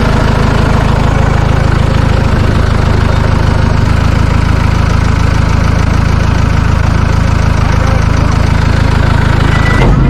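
Tractor engine idling steadily, loud and close, shortly after being started.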